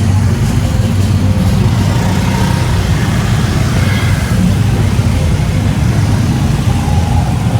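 Steady car engine and road rumble heard from inside the cabin, a constant low drone.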